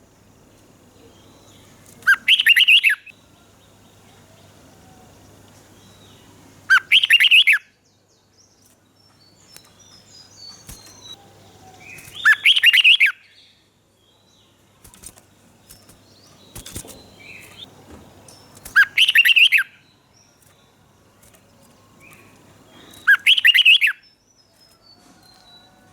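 Red-whiskered bulbul singing: five short, loud song phrases a few seconds apart, with faint chirps from other birds in the pauses.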